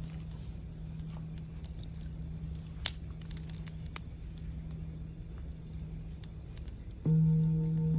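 Campfire crackling with scattered small pops, one sharper pop about three seconds in, under a steady low tone from a singing bowl. About seven seconds in a singing bowl is struck and rings out with several steady tones.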